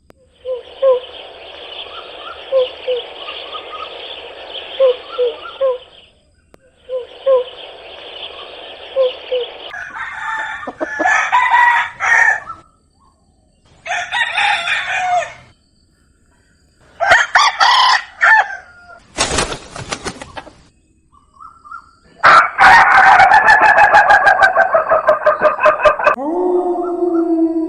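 Chickens: clucking and short chirps over a noisy farmyard for the first few seconds, then roosters crowing several times in separate calls. A different, steadier call starts right at the end.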